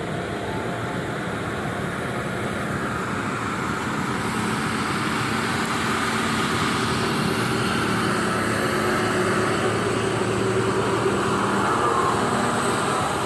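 Steady motor vehicle engine and road noise with a low, even hum, growing a little louder through the stretch.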